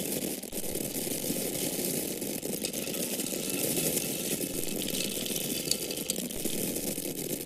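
Dry corn kernels falling and pouring in a steady stream, a dense continuous rattle of many tiny ticks.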